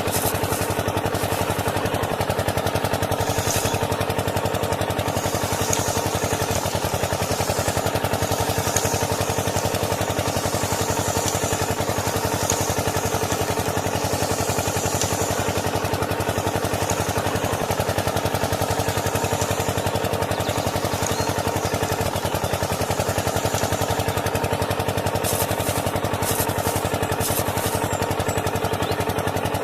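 Tractor engine running steadily at an even idle, with a fast regular beat.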